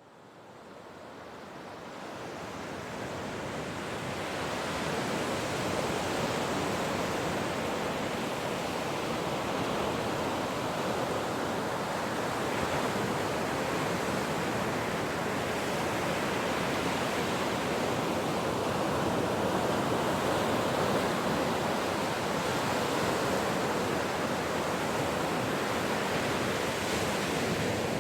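Ocean surf: a continuous wash of breaking waves, fading in over the first few seconds and then holding steady.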